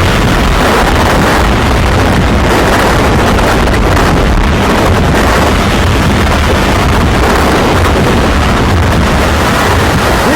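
Tornado winds striking the microphone in a loud, steady rushing noise over a deep rumble.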